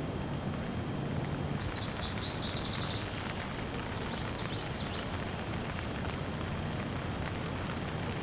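Steady rain falling, with a bird giving a quick run of high chirped notes that climbs in pitch about two seconds in, then a few fainter chirps a couple of seconds later.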